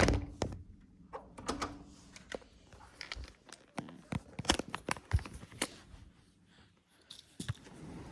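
A sharp thump, then scattered light clicks, knocks and crinkles of objects being handled.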